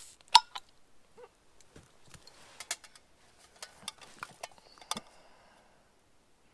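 A beer bottle being opened, with one sharp, loud snap of the cap coming off, followed by scattered clicks and light knocks of handling.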